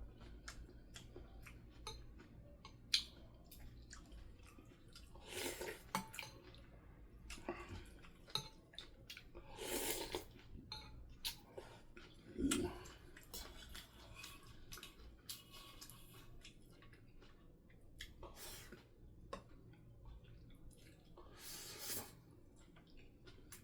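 Eating sounds: chopsticks and spoon clicking against bowls and dishes, with chewing and a few longer noisy bursts such as sips or slurps.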